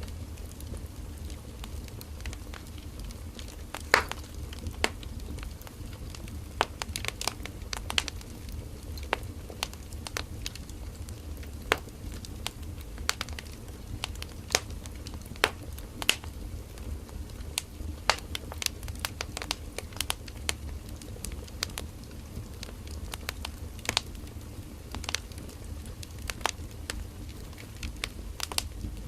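Firewood burning in a campfire, crackling and popping irregularly over a steady low rumble of the flames, with a few louder pops, one about four seconds in.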